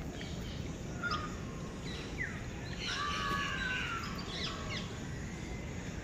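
Birds chirping and calling in the trees: scattered short chirps and a falling sweep, then a denser stretch of held calls about three seconds in. Underneath is a steady low background hum of outdoor noise.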